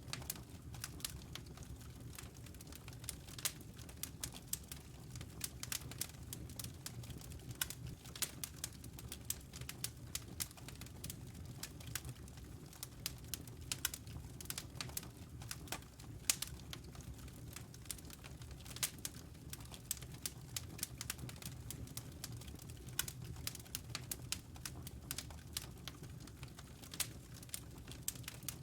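Wood fire burning in a fireplace: irregular sharp pops and snaps of the burning logs, several a second, over a low steady rumble of the flames.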